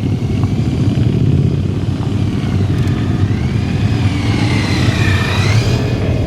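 Motorcycle engine running loud and steady, with a higher whine that rises and falls in pitch in the second half.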